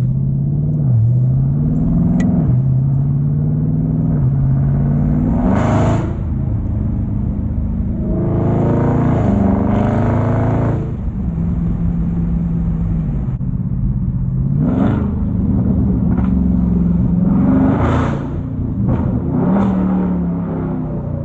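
A Dodge Charger's V8 engine and exhaust accelerating through the gears: the pitch climbs and drops back at each upshift, several times over, with harder bursts of throttle about six seconds in, from about eight to eleven seconds, and near eighteen seconds.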